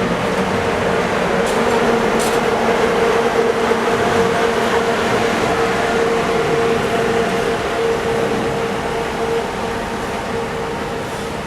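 Steady, loud hiss from an air-conditioned bus, with a steady tone underneath that fades out about two-thirds of the way through.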